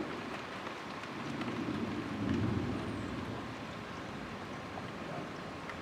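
Steady rain falling, with a low rumble that swells and fades about two seconds in.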